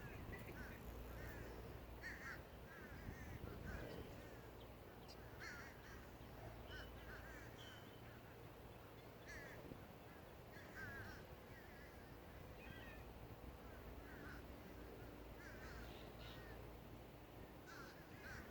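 Crows cawing repeatedly, faint and at a distance, with short calls coming every second or two.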